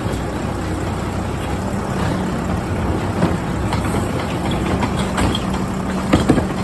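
Garbage truck engine running with a steady low hum, with a few sharp metal clanks near the end.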